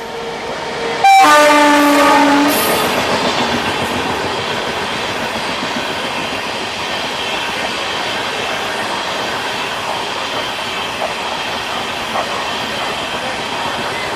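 Indian Railways locomotive horn blown once, a loud blast about a second and a half long starting about a second in, followed by the steady running noise of the train passing close by.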